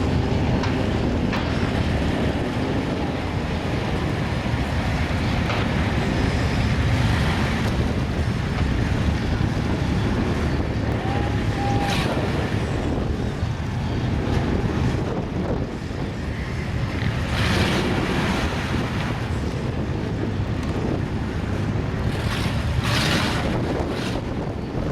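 Steady, loud rumble of wind buffeting the microphone over the running of mud-truck engines, with a short tone near the middle and a few brief hissing surges later on.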